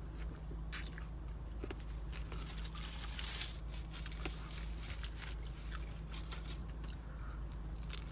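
Close-up chewing and wet mouth clicks of a person eating a veggie wrap with lettuce, pickles and red onion, with another bite into the wrap near the end. A steady low hum runs underneath.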